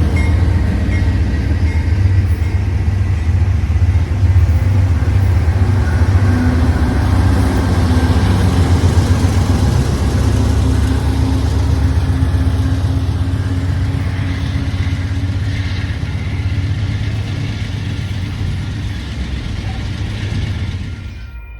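Diesel locomotive engine running close by, a loud, steady low rumble that eases slightly in level over the last few seconds and cuts off abruptly near the end.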